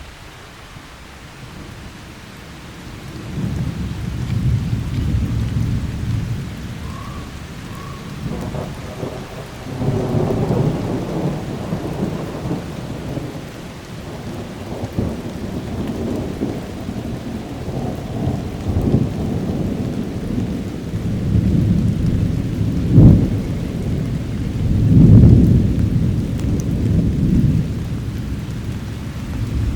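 Thunder rolling in several long, low peals over steady rain. A sharp crack comes about two-thirds of the way in, followed by the loudest rumble.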